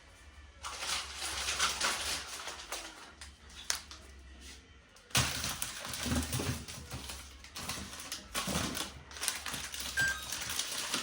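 Rustling of plastic grocery packaging and clattering of food items being handled and packed into a fridge freezer, in two spells with a short lull in the middle.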